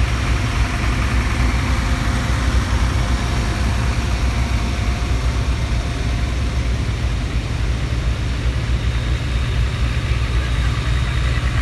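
Antique tractor engines running with a steady low rumble.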